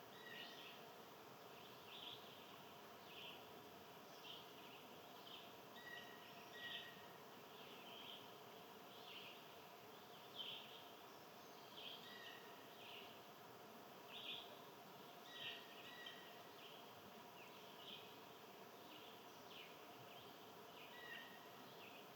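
Faint bird chirps, short calls repeating about once a second, with an occasional brief whistled note, over a faint steady hum.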